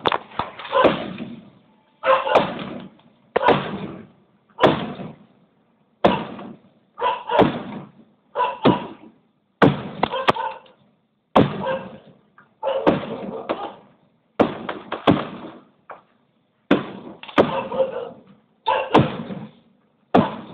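Aerial firework shells bursting one after another, a sharp bang about every second or so, each fading away over roughly a second.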